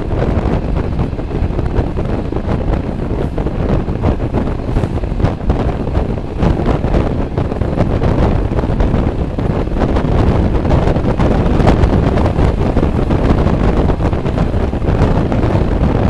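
Wind buffeting the microphone at the open window of a moving passenger train, over the steady running noise of the train's wheels on the rails.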